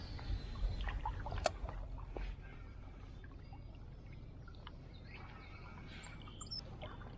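Shallow creek water sloshing and splashing, with a few small sharp knocks, louder for the first couple of seconds and then settling to a faint steady water sound.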